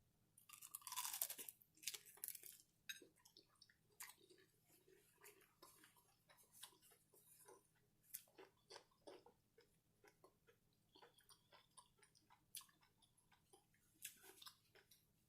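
A person biting into and chewing crisp breaded fried seafood. A louder crunchy bite comes about a second in, followed by a run of small crunches and mouth clicks.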